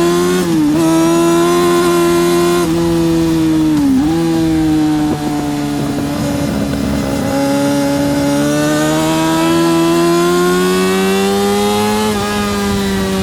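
Yamaha R6 (RJ03) 600cc inline-four engine running hard at high revs on a racetrack. Its pitch dips briefly about half a second in and again about four seconds in, sags a little, then climbs steadily toward the end.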